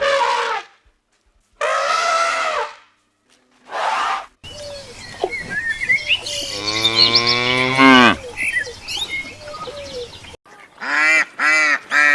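A string of animal calls from different clips: three short separate calls in the first four seconds, then a long call that falls in pitch at its end, then a quick run of short repeated calls near the end.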